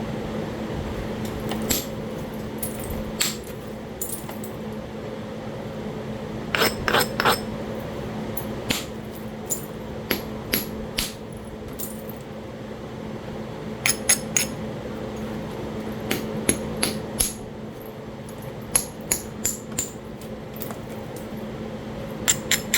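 Percussion flintknapping on Talahata quartzite: sharp, clicking strikes with a brief high ring, coming singly and in quick clusters of two to four as flakes are driven off the biface. A steady low hum runs underneath.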